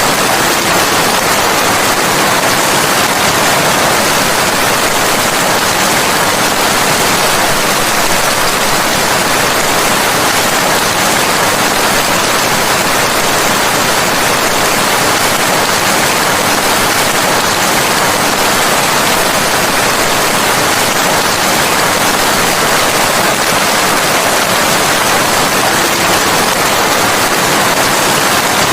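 Steady heavy rain: a dense, even hiss with no thunder and no separate drops standing out.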